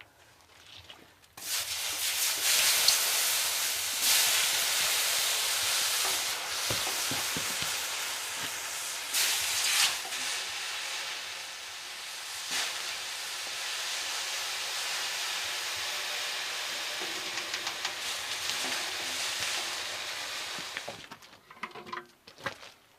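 Loud sizzling, as of food frying in a hot pan, that starts suddenly about a second and a half in, with a few knocks along the way, and dies down near the end.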